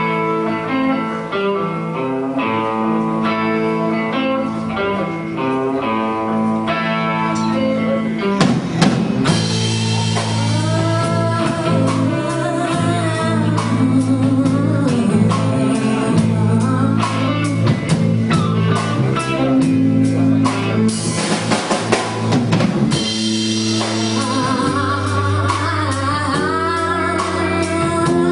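Live band playing a song: a picked guitar pattern opens, then drums and bass come in about eight seconds in, with a bending melody line over the full band.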